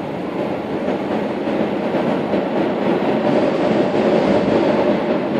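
Suburban electric train running underground, heard from inside the carriage: a steady rumble of wheels on rail that grows a little louder.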